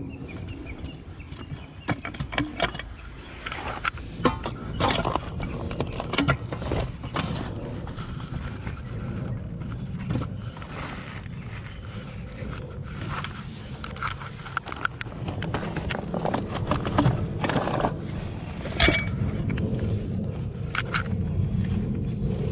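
Scattered metallic clinks and knocks of tools and pipe fittings being handled during plumbing work, over a steady low rumble that grows louder toward the end.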